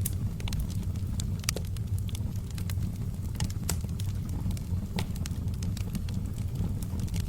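Wood fire burning in a fireplace: a steady low rumble of flames with irregular sharp crackles and pops from the logs, two of them louder, a little after one and a half seconds and about five seconds in.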